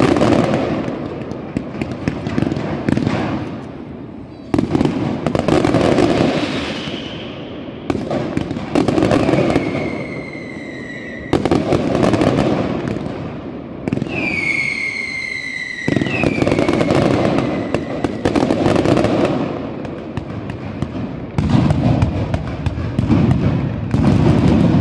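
Low-level fireworks display of comets and mines, with dense crackling and popping that swells into a fresh wave of bursts every few seconds. A few whistles fall in pitch about ten and fifteen seconds in.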